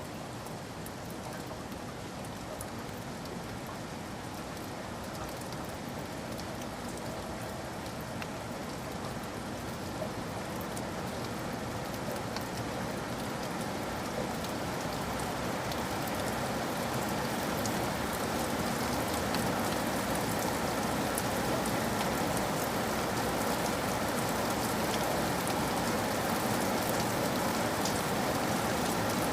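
Steady rain with drops tapping, growing slowly louder over the span.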